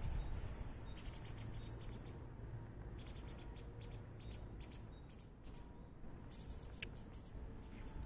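Small birds singing: several short bursts of fast, high chirping trills, over a low steady rumble.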